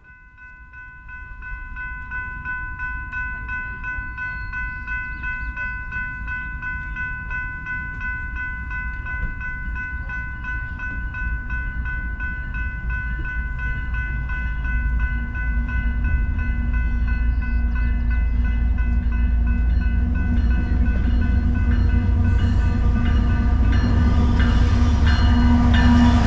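A train approaching, its low rumble growing steadily louder through the second half. A steady high-pitched tone with several overtones holds over it the whole time.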